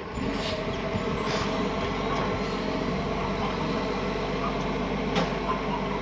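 Garbage truck engine running steadily close by, with a few short sharp clicks over it, the clearest about five seconds in.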